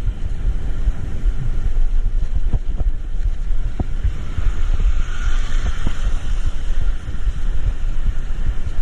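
Steady low rumble of a vehicle on the road, with wind buffeting the microphone. A hiss swells and fades about five seconds in.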